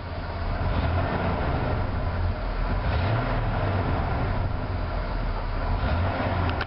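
1988 Ford F-150's 300 cubic-inch inline six-cylinder engine idling steadily.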